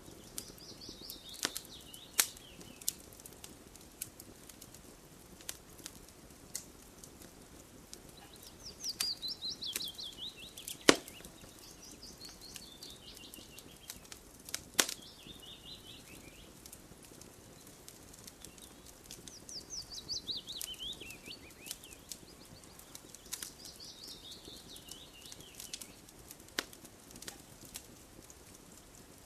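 Campfire crackling with scattered sharp pops, and a bird singing a quick trill that falls in pitch, repeated several times.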